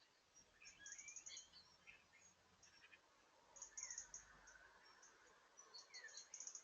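Faint small-bird calls: quick high trills of chirping notes in several short bursts, with a couple of brief downward-sliding calls, over a low hiss.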